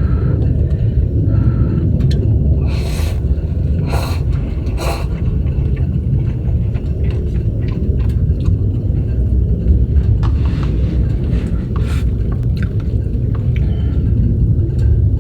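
Strong gusting wind, a heavy steady low rumble with brief hissing gusts about three, four and five seconds in, and scattered light ticks.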